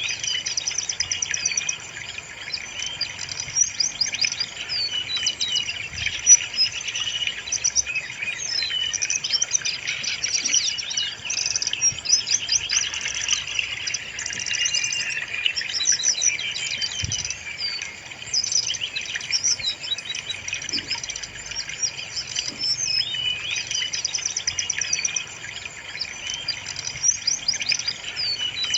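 Brown-chested jungle flycatcher (sikatan rimba dada coklat) singing without pause: a busy run of rapid, high chirps and trills.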